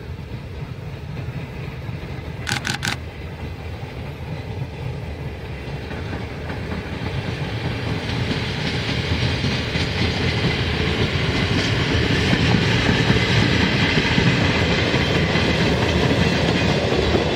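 Freight train with an ED45 electric locomotive and its loaded calcium-carbonate and fly-ash wagons rolling along the line, wheels clicking over the rail joints, the rumble growing steadily louder. About two and a half seconds in, three quick high tones sound.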